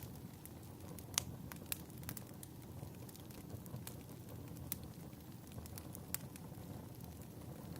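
Fireplace fire crackling: a steady low rumble of burning with sharp, irregular pops and snaps, the loudest about a second in.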